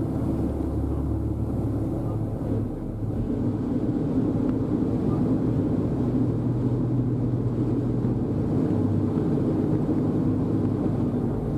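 A ferry boat's engine running steadily, a low, even drone.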